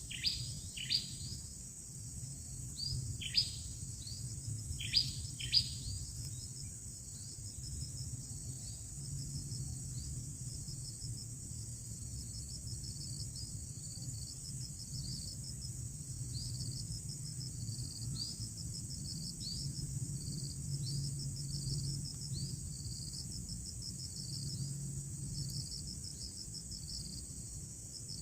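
A bird gives a series of sharp chirps that fall in pitch over the first few seconds, over a steady, high-pitched trilling of insects that runs throughout.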